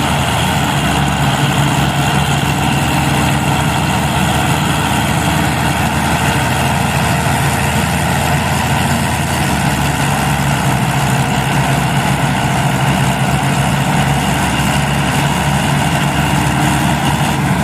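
Tractor diesel engine running steadily at a constant speed, a loud, even note that does not rise or fall.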